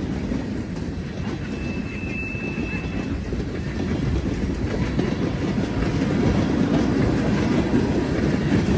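Norfolk Southern freight train rolling past, its cars rumbling and wheels clicking over the rail joints, growing somewhat louder toward the end.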